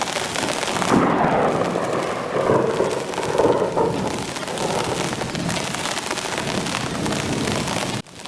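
Heavy rain pouring steadily, with a louder rolling swell from about a second in that lasts a few seconds, typical of distant thunder. The sound cuts out sharply near the end.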